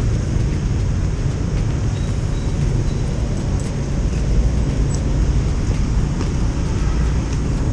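Steady low rumble of a motorcycle engine running amid street traffic noise.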